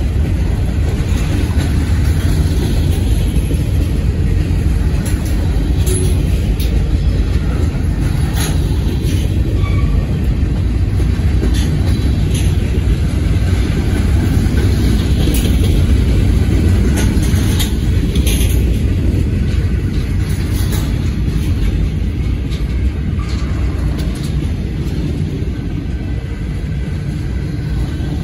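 Freight train cars rolling past: a loud, steady low rumble of steel wheels on the rails, with scattered short, sharp clicks and squeaks from the wheels and couplers.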